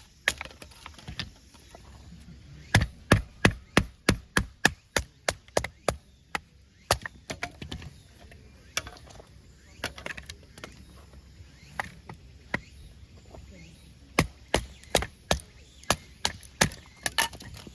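Firewood being chopped: sharp wooden strikes in quick runs of about four a second, one run a few seconds in and another near the end, with scattered single strikes between.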